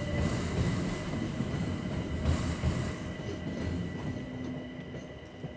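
London Overground electric train running across a railway bridge: steady noise of wheels on rail with a thin high tone over it and a few clicks, growing quieter toward the end as the last cars pass.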